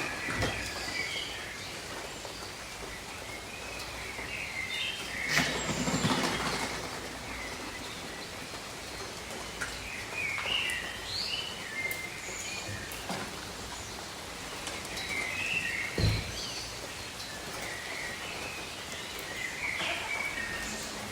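Steady rain falling over rainforest foliage, with birds chirping in short scattered bursts throughout. A brief dull thump sounds about sixteen seconds in.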